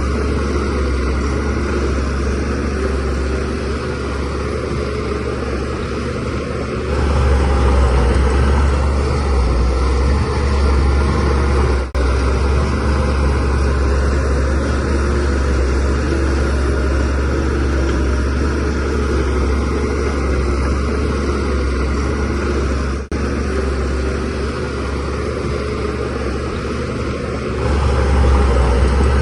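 DH17C3 bulldozer's diesel engine running steadily under load, growing louder about seven seconds in and again near the end.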